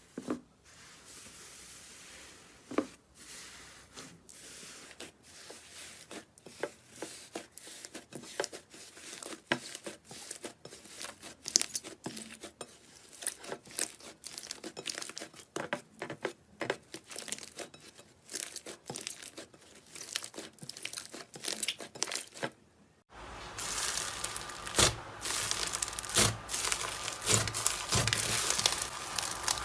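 Crisp crackling and tearing from a crunchy material being pressed and pulled apart by hand, a dense run of small irregular clicks. About 23 seconds in it cuts to a louder, denser stretch of crackling.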